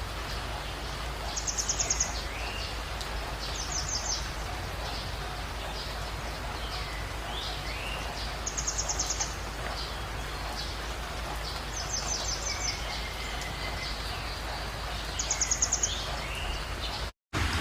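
Birds calling over a steady background hiss: a short, rapid high trill repeated about five times a few seconds apart, with lower swooping whistle notes between. Near the end the sound drops out for a moment and a louder, denser hiss of rain begins.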